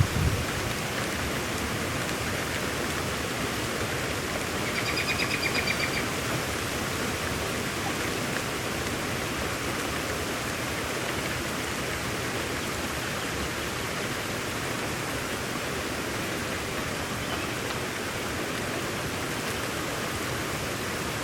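Steady, even rain noise. About five seconds in, a brief, high, rapid trill sounds over it for a second and a half.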